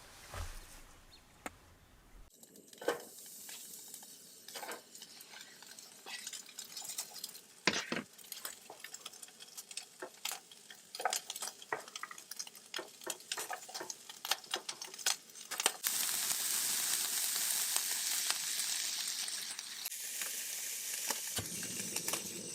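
Food frying in a hot pan: a run of small clicks and taps, then a steady sizzle that sets in about two-thirds of the way through.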